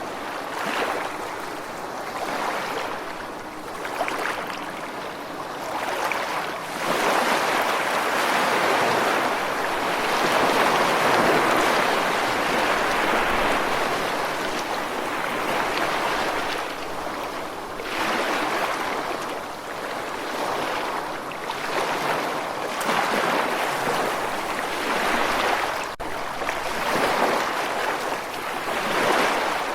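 Ocean waves washing ashore: a continuous hiss of surf that swells and eases as successive waves break and draw back.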